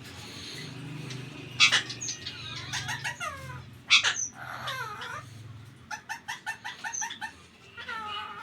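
Ringneck parakeet calling: two loud, harsh calls that fall in pitch about one and a half and four seconds in, then a quick run of short repeated notes about six seconds in, and one more call near the end. A low hum runs beneath the first six seconds.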